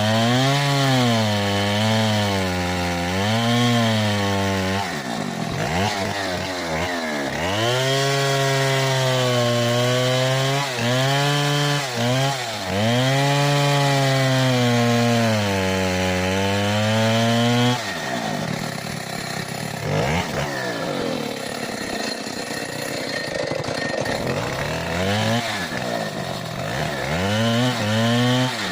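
Stihl 070 two-stroke chainsaw cutting into mahogany, its engine note rising and falling as the chain bogs and frees in the wood. About two-thirds of the way through the engine note drops away for several seconds, then comes back near the end.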